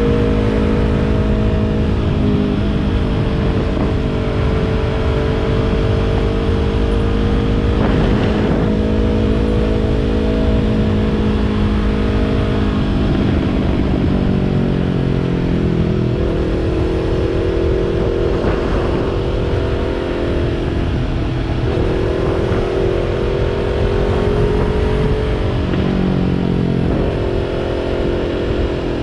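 2020 Yamaha YZF-R3's parallel-twin engine through a Yoshimura exhaust, riding at steady revs, with the revs dropping in a few steps about halfway through and then rising and falling again.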